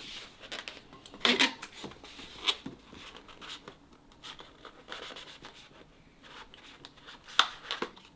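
Inflated latex modelling balloon being rubbed and handled as it is pinched and twisted, giving irregular short rubbing sounds, loudest about a second in and near the end.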